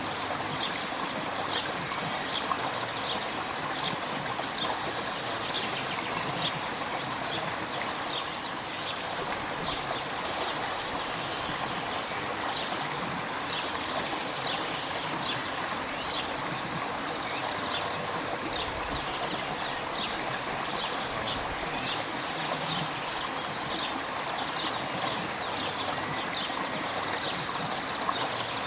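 River water flowing, a steady rush with many small splashes and trickles over it.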